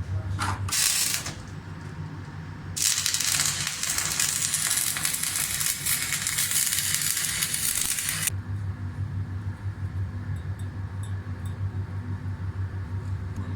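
Electric arc welding: an arc crackling and hissing for about five seconds, with a brief burst about half a second in, over a steady low hum.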